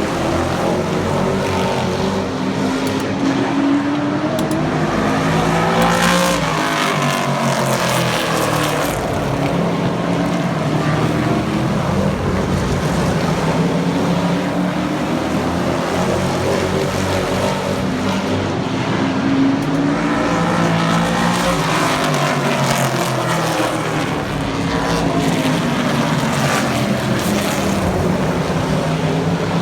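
Super trucks racing around an oval track, their engines running at high revs throughout. Twice the engine pitch climbs and then drops as the pack goes past, once about six seconds in and again about twenty seconds in.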